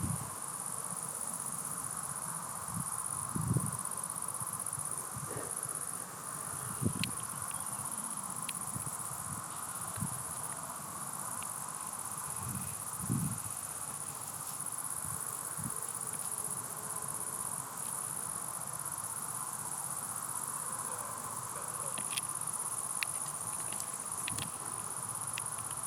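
Steady high-pitched insect chirring, with a few soft low thumps and faint ticks scattered through.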